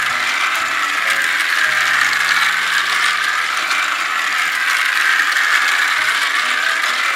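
Battery-powered toy train's small motor and plastic gears whirring and rattling steadily as it runs around its plastic track, the sound swelling and fading slowly.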